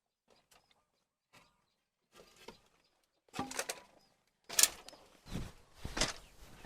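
Handling noises from work on hen nests: a few faint clicks, then rustling and scraping with several knocks, the loudest a sharp knock about four and a half seconds in.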